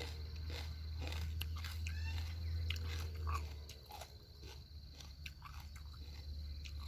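Crisp crunching and chewing of a raw mini sweet pepper (snack pepper) close to the microphone, with many scattered sharp crunches. A steady low rumble runs underneath, stronger in the first half.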